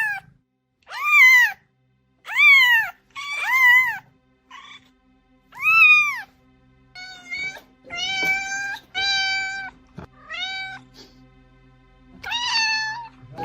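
Domestic cats meowing: a string of about ten separate meows with short gaps. The first several rise and then fall in pitch. The later ones are lower and flatter, over a faint steady hum.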